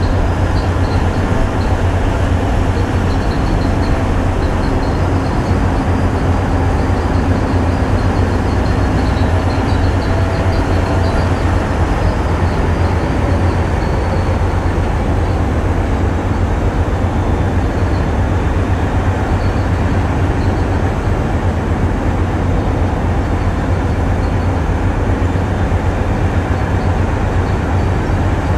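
Tugboat's diesel engines running steadily under heavy load during an indirect braking manoeuvre, a deep, even rumble with a faint high whine above it.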